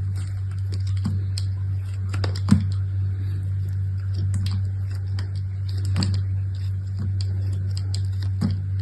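Scattered light taps, clicks and crinkles of soap packaging being handled and unwrapped, the sharpest about two and a half seconds in, over a steady low hum.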